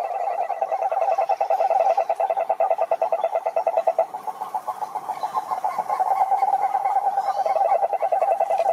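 Frogs calling in a chorus: many rapid pulsed croaks overlapping into a fast, steady pulsing.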